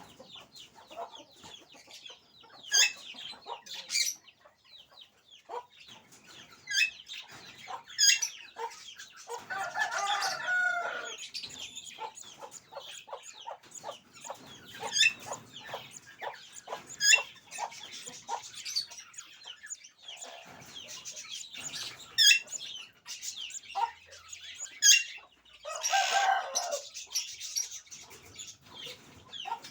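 Birds calling: many short, shrill squawks throughout, with two longer, fuller calls, one about ten seconds in and one near the end.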